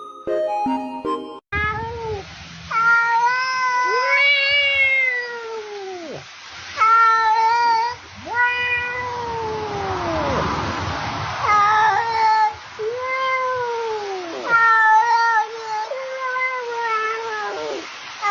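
A domestic cat meowing over and over in long, drawn-out yowls that rise and fall in pitch, a dozen or so calls, after a short snatch of music at the start.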